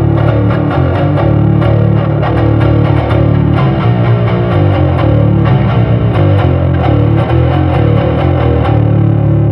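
Electric bass guitar played through a Lateral Sounds Root distortion pedal, a continuous riff of changing low notes. The pedal's low gain is turned all the way down, so the clean low end comes through under the distorted upper range.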